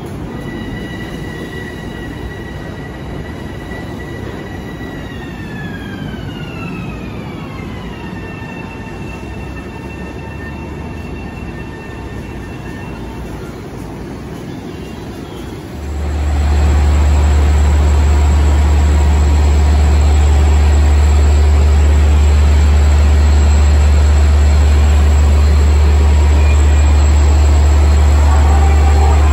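Electric commuter train's motor whine: several high tones held together, then gliding down in pitch and fading, over the running noise of the train on the rails. About 16 seconds in the sound cuts to a much louder steady low rumble beside a double-deck commuter coach.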